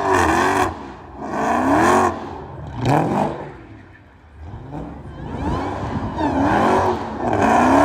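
Dodge Hellcat's supercharged 6.2-litre HEMI V8 revved hard several times, its pitch climbing and falling with each blip. A lull comes about four seconds in, followed by a longer run of revs.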